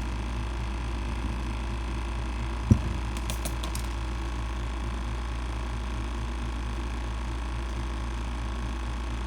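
A small machine runs with a steady mechanical buzz and a fast, even rattle. There is one sharp knock about three seconds in, followed by a few faint clicks.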